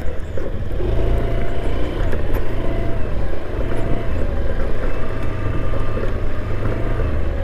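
Motorcycle engine running steadily, with a heavy low rumble and a faint wavering whine above it.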